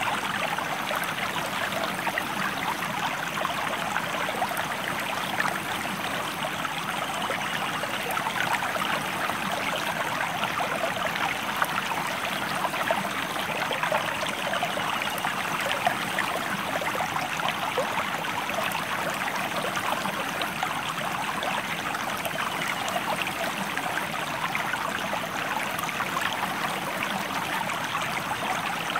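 River water running over rocks, a steady, even rush with fine splashing and trickling.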